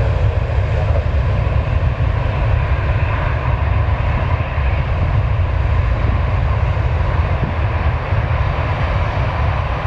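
Airbus A340's four jet engines at takeoff power: a steady deep rumble with a hiss above it.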